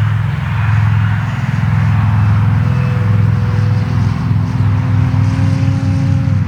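Electric RC Waco biplane's motor and propeller whining as the model flies through a loop, the pitch holding steady, rising slightly, then dropping away near the end, over a steady low rumble.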